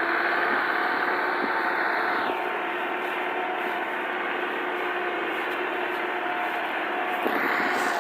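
Tractor engine running at steady revs with a constant whine; the higher hiss drops away about two seconds in and swells back near the end.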